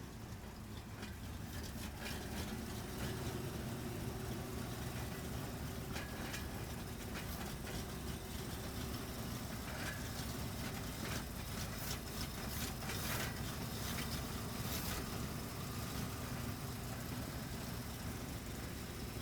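LiAZ-677 bus's V8 petrol engine running steadily at idle, while glass bottles clink now and then, most often in the middle stretch.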